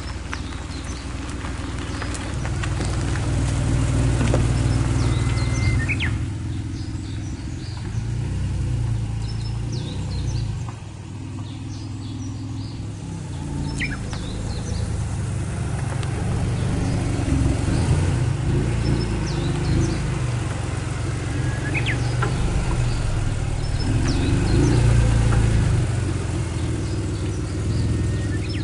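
Honda NSX's V6 engine running at low revs, its pitch and loudness rising and falling as the car is driven, with birds chirping.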